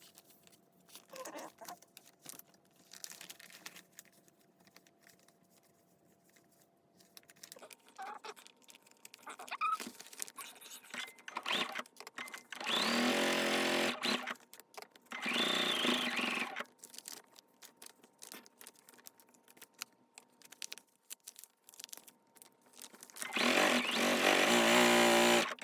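Sewing machine running in three short bursts, the last and longest near the end, with soft paper rustling and clicks of handling between runs.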